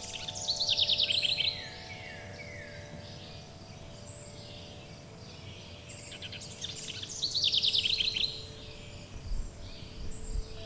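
Songbird singing two loud, rapid trilled phrases, one about a second in and another around seven seconds, with fainter bird calls between them. Under the birds, several sustained chime tones ring steadily.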